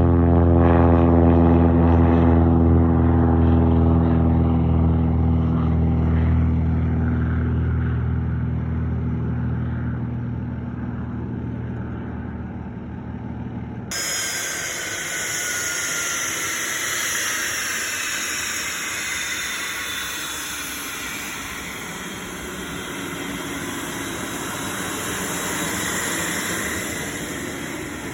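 Propeller aircraft engine droning with a steady, deep hum that slowly fades. About halfway through the recording cuts to a different aircraft: an even rush with faint whines slowly falling in pitch as it goes by.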